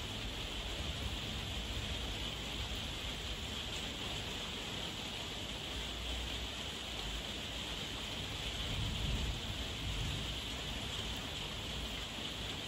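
Heavy rain falling steadily, an even hiss of drops on surfaces, with a low rumble swelling up briefly about nine seconds in.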